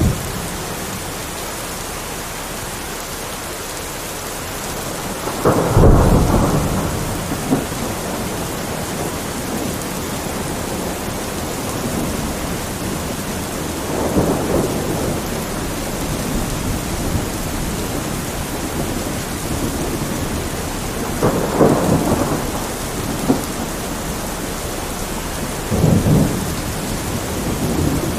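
Steady heavy rain with thunder rolling four times, the loudest rumble about six seconds in and the others spread through the rest.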